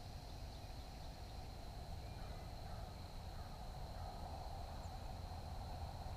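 Faint outdoor ambience: a steady low rumble with a thin, steady high whine over it, and a few faint bird chirps about two to three and a half seconds in.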